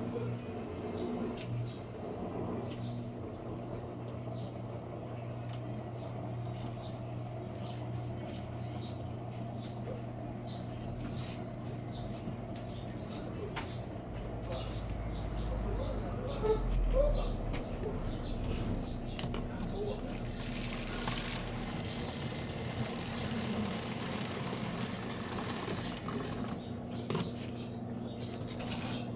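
Washing machine running with a steady low hum; a deeper rumble swells for several seconds in the middle. Small birds chirp throughout.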